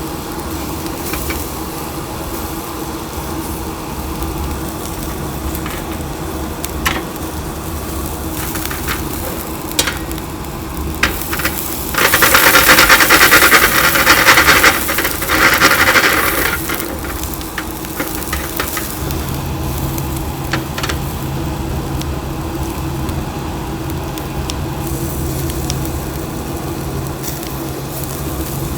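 Chicken sizzling on a charcoal grill over a steady hum, with scattered light clicks of utensils. About twelve seconds in, a loud hiss rises for roughly four seconds and then dies back.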